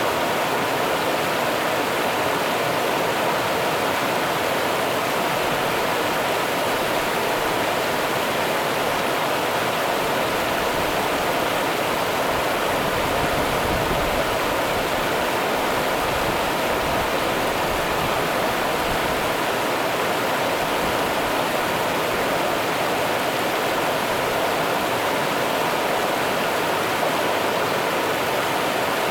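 Rio Grande river water running and rushing, a steady, even roar of flowing water with no breaks.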